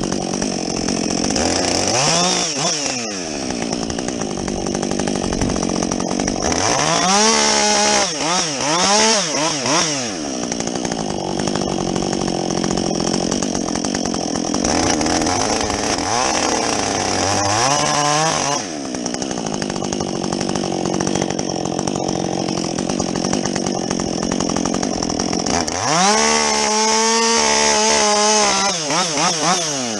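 Husqvarna 562XP two-stroke chainsaw with a modified muffler, bucking logs at full throttle. About four times the engine drops back and revs up again between cuts, near the start, around a third of the way in, past the middle and near the end.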